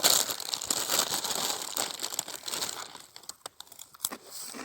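Crisp packet crinkling as it is handled. The crinkling thins to a few scattered crackles about three seconds in.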